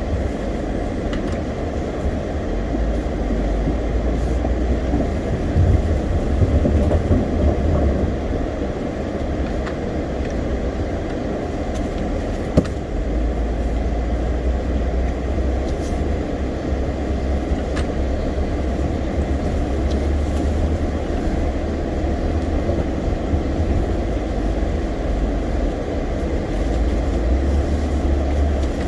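Steady low rumble of a vehicle on the move, engine and road noise with most of the sound in the low end. There is a single sharp click about twelve and a half seconds in.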